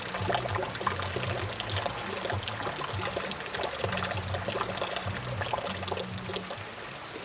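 Rain falling steadily, a dense run of many separate drops striking close to the microphone, with a low hum underneath that comes and goes.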